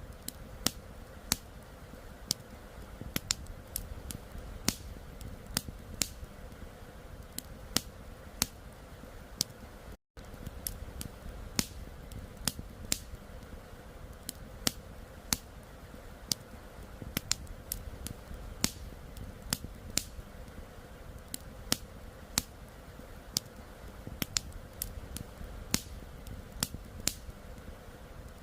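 Campfire burning with sharp, irregular crackles and pops, about two a second, over a steady low rush of flowing river water. The sound cuts out completely for a split second about ten seconds in.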